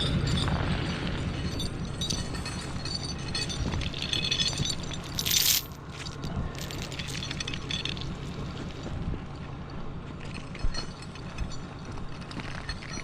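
Steel tow chain clinking and rattling as it is handled, with one brief, louder harsh rattle about five seconds in, over the steady low hum of an engine running.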